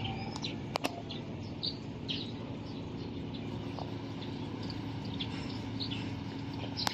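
Birds chirping in short, repeated calls over a steady low machine hum, with a couple of sharp clicks about a second in.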